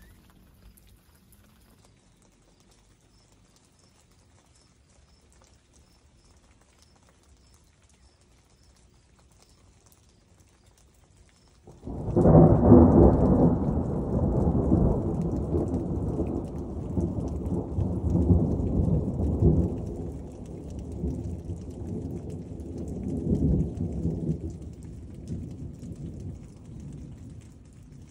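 Thunder: about twelve seconds in, a sudden loud clap that rolls on as a long, deep rumble, swelling twice more before it slowly fades.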